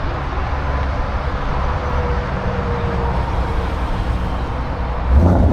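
A car engine idling with a steady low rumble, and a brief louder sound about five seconds in.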